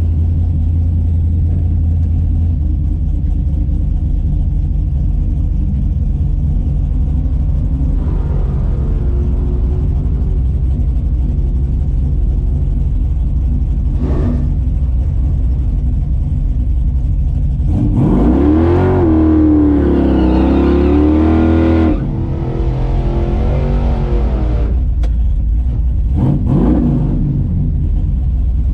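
Big-block V8 drag car idling with a steady low rumble. About two-thirds of the way in it is revved hard: the pitch sweeps up, holds and wavers for about four seconds, then drops back to idle. Shorter blips of the throttle follow near the end.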